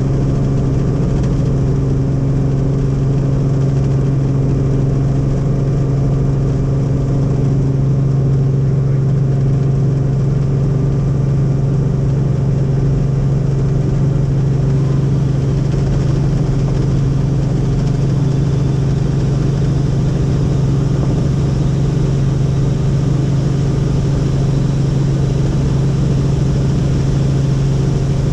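Helicopter in flight: a steady, loud drone of the engine and rotors with a strong low hum that holds one pitch throughout.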